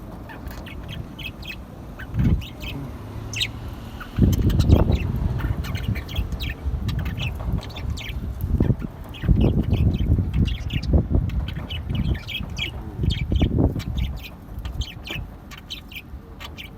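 Parrots in an aviary chirping in many short, high calls, with bursts of low rumbling noise a few seconds in, around the middle and again later.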